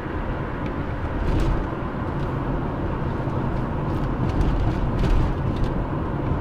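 Car driving: a steady rumble of engine and road noise.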